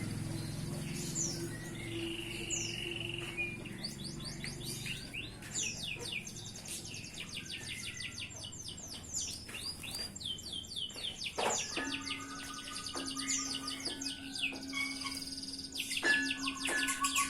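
White canary singing: long runs of rapid trills and chirps. Over the second half, steady held tones join in underneath.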